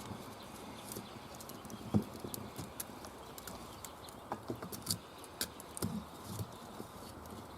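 Campfire crackling: irregular small pops and clicks over a steady hiss, with one sharper crack about two seconds in.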